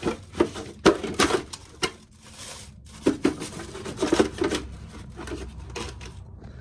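Loose shelled corn kernels rattling and clattering as they are scooped up with a coffee can, in irregular bursts with a few sharper knocks.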